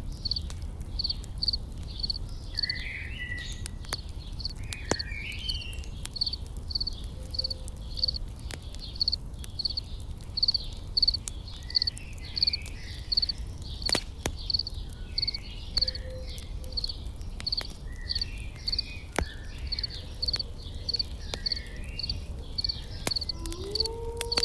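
Layered outdoor ambience: an insect chirping in a steady pulse about twice a second, scattered bird chirps, and the sharp pops and crackle of a campfire. Near the end a long low tone starts, glides up and holds.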